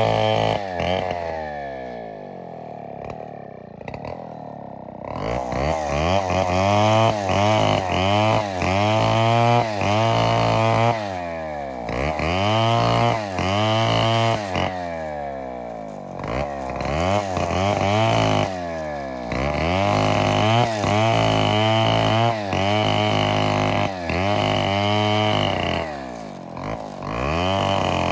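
Gas chainsaw revving up and dropping back again and again. It runs lower and quieter for a few seconds near the start, then begins a long run of repeated revs.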